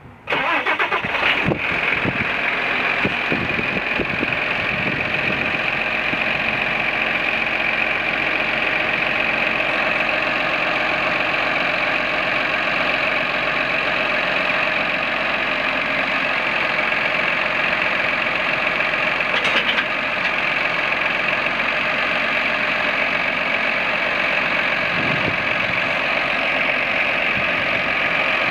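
Diesel engine of a 2007 Case IH Magnum 215 tractor running steadily, with a high whine over the engine note.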